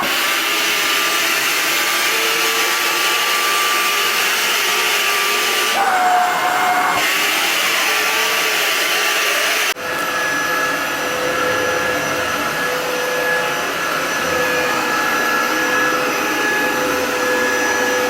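Tool&Tool T300 cordless stick vacuum running with a steady whine. The tone shifts briefly about six seconds in, then changes suddenly about ten seconds in to a different, steady pitch.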